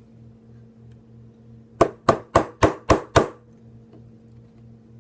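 Small hammer tapping six times in quick succession, about four taps a second, on a pistol part while a trigger is being fitted.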